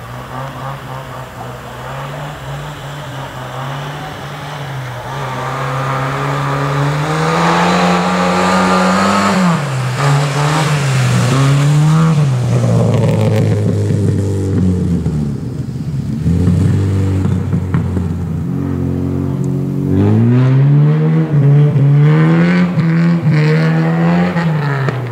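A car engine revving up and down again and again as the car is driven around on snow. It grows louder over the first ten seconds or so, and there is another run of quick rev rises about twenty seconds in.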